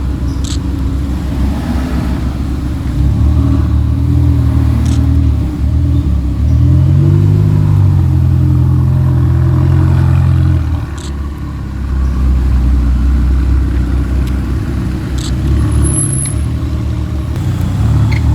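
Supercar engine running loud through its exhaust and being revved: the note climbs about three seconds in, sweeps up and back down around seven seconds, holds high, drops a little before eleven seconds, then builds again.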